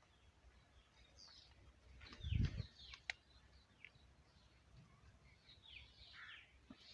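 Small birds chirping, with many short, high, falling calls scattered over a faint low rumble. A single low thump about two and a half seconds in is the loudest sound.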